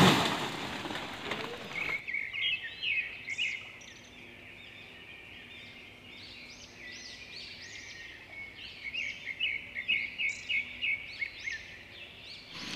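Birds calling, a long run of short, high chirps repeated many times. For about the first two seconds this is covered by a loud hiss of noise that cuts off abruptly.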